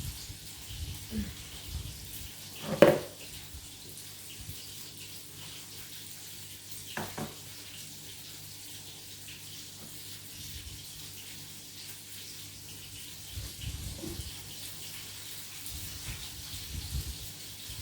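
Steady hiss with a low hum, typical of kitchen background noise, broken by a sharp knock about three seconds in and a softer knock about seven seconds in, with a few low bumps near the end.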